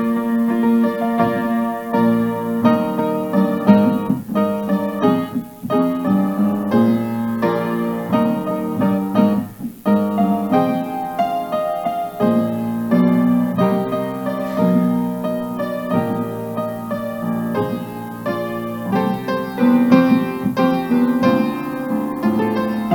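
Piano music: a slow piece of held chords that change every second or two.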